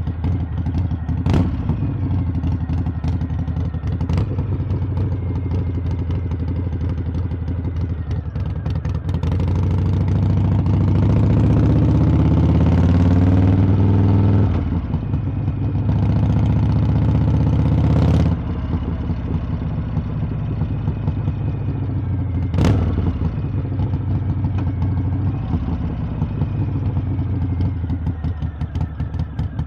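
Harley-Davidson V-twin engine and exhaust on the move, running steadily, then rising in pitch and growing louder as the throttle opens about a third of the way in. It eases off suddenly around the middle, pulls again, and cuts off sharply a little past halfway. A few sharp clicks stand out along the way.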